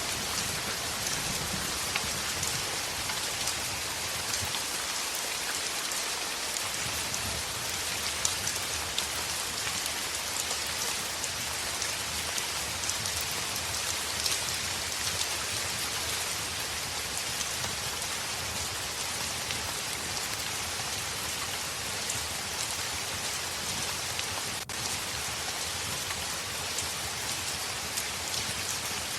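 Heavy rain falling on a window, a steady dense hiss with scattered sharp ticks and pops.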